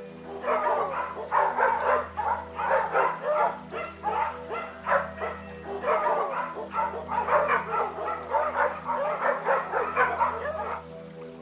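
An animal giving short, squeaky yipping calls in quick runs of several a second, pausing briefly about every three seconds, over steady background music tones.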